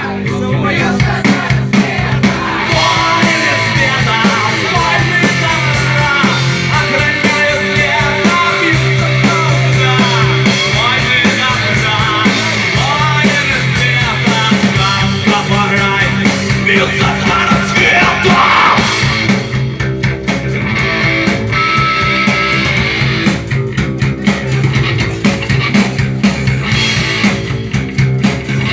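Rock band playing a cover song live, with electric guitar, bass and drums, and a singing voice over them.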